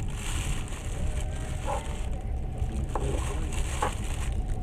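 Steady rumble and hiss of a moving passenger train heard from inside the carriage.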